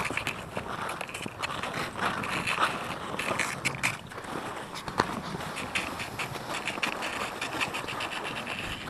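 Skis crunching and scraping over snow with a loaded drag sled scraping along behind, in uneven strokes.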